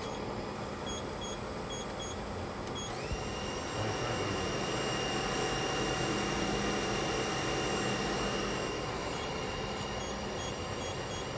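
A CNC vertical machining center's spindle running with a high steady whine over shop noise. The whine glides up in pitch about three seconds in, as the spindle speeds up. Short, evenly spaced beeps sound in the first few seconds.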